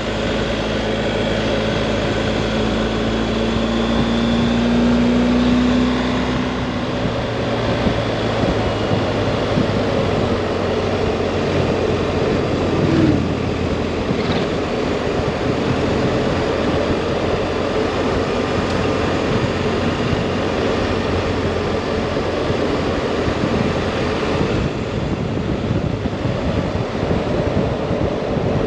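Tires roaring on pavement under a BMW GS Adventure motorcycle at road speed, over the bike's boxer-twin engine. The engine rises in pitch over the first few seconds as the bike accelerates, then the tire roar holds steady.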